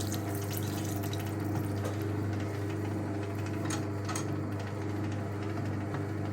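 1958 Hotpoint Empress washing machine's electric motor running with a steady low hum, driving the power wringer as towels are squeezed through its rollers. A few light clicks about four seconds in.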